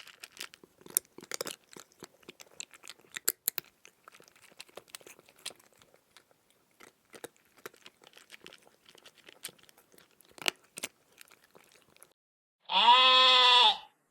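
A farm animal chewing and crunching feed close to the microphone, in irregular sharp crunches for about twelve seconds. Near the end, a single loud bleat lasting just over a second.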